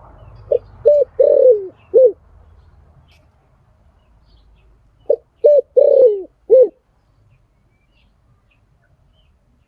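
Spotted dove cooing: two phrases of four notes, each a pair of short coos, a longer coo that falls in pitch, then a short final coo. The first phrase comes about half a second in and the second about five seconds in.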